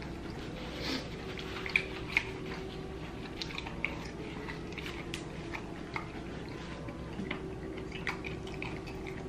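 Close-miked eating sounds: scattered wet clicks and smacks of chewing sauce-covered fried chicken, over a faint steady hum.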